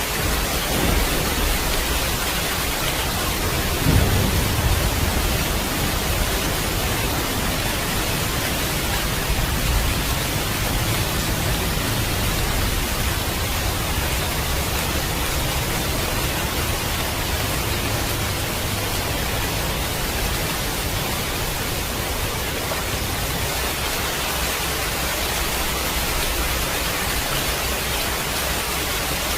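Steady rain hissing without a break, with a low thunder rumble about four seconds in and fainter rumbling later.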